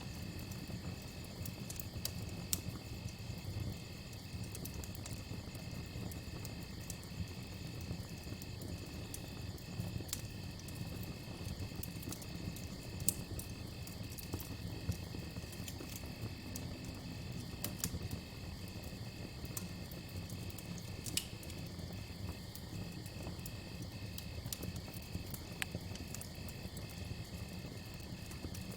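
Campfire crackling, with scattered sharp pops and a few louder ones over a low steady rumble. Crickets chirp steadily in a high, evenly pulsing trill.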